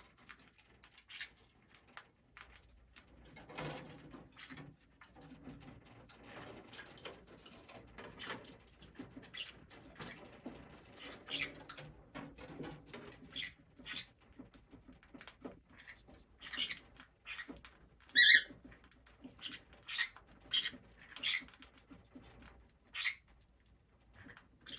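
Conure parrot eating, with many small scattered clicks and crunches of its beak on food. About eighteen seconds in, one short, loud chirp stands out.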